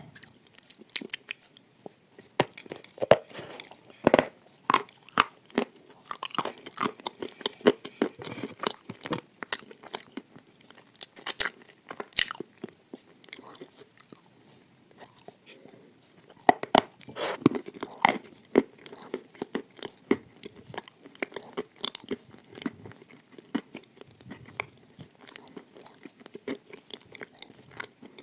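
Close-miked biting and chewing of hard, crumbly boat-shaped pieces filled with white paste. Irregular sharp crunches come in several clusters, with quieter chewing in between.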